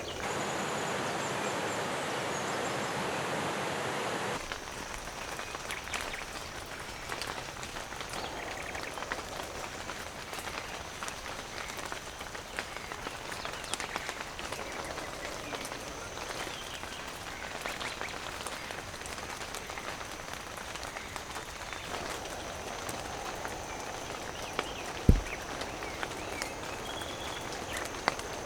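Steady rain falling, with scattered drops ticking. It is louder and denser for the first four seconds, then cuts abruptly to lighter rain. A single dull thump comes about 25 seconds in.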